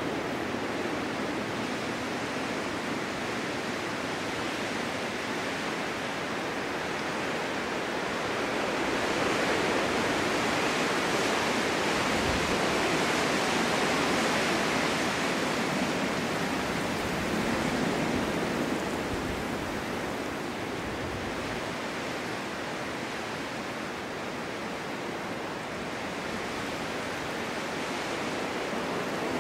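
Wind blowing steadily through a snowstorm. It swells into a longer gust about a third of the way in, then eases off again.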